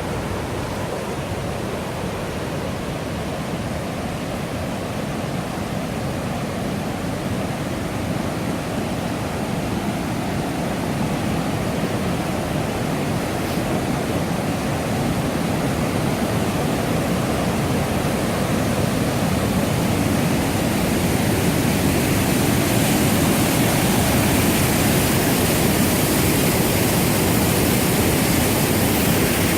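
Rushing water of the Millstone River, a steady even noise that grows gradually louder over the second half.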